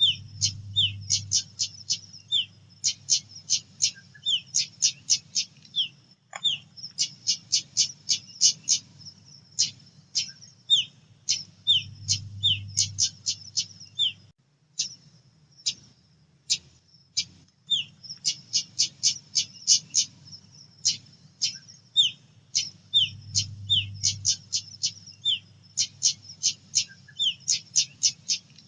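Female pied bushchat (decu) calling: runs of sharp, high ticking notes, several a second, broken by short falling chirps, repeated over and over. A faint low hum sits underneath.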